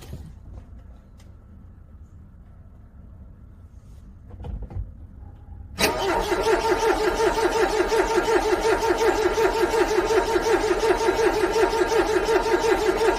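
Car engine cranking on its starter motor in the cold, beginning about six seconds in with a steady rhythmic chug of about five pulses a second, and not catching.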